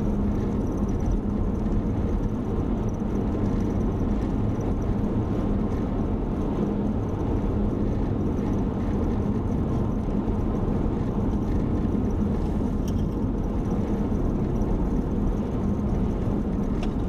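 Steady road and engine noise of a moving car heard from inside the cabin: an even, low drone with a faint steady hum, unchanging throughout.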